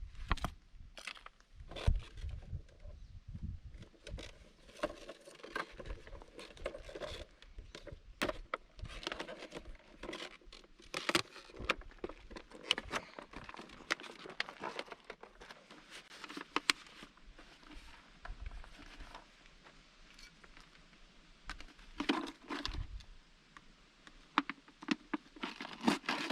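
Close-up rustling, crinkling and irregular clicking and knocking of gear being handled and packed, with a few sharper clicks near the start and end.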